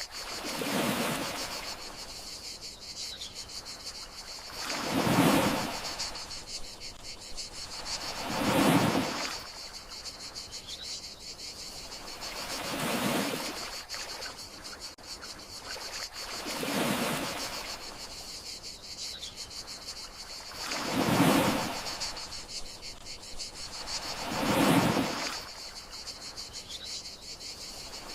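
Gentle sea waves washing ashore, seven soft swells that rise and fall about every four seconds, over a steady high chirring of crickets. A brief faint chirp recurs about every eight seconds.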